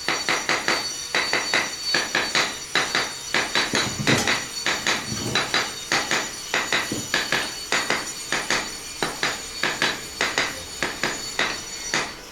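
A brick being tapped down into its mortar bed: rapid, even knocks, about three to four a second, that stop near the end once the brick is set to the laser line.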